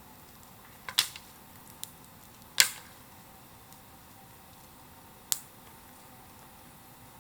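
Bonfire crackling, with a handful of sharp, separate pops over a quiet background. The loudest pop comes about two and a half seconds in.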